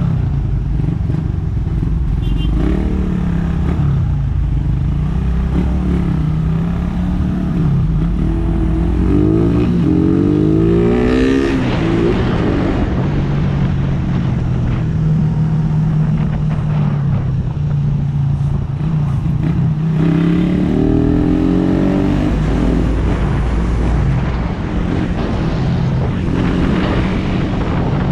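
Suzuki Raider R150 motorcycle's single-cylinder four-stroke engine running under way, its pitch rising and falling as it accelerates through the gears and eases off. The hardest climbs come about a third of the way in and again past the two-thirds mark.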